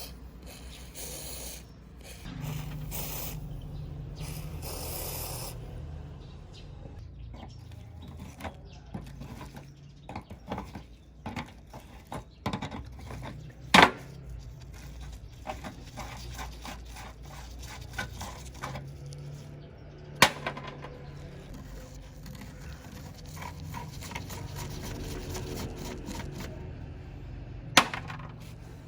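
Hand work on the lamp. First there are several short hissing sprays. Then come scattered clicks and knocks, three of them sharp and loud, over a steady low hum.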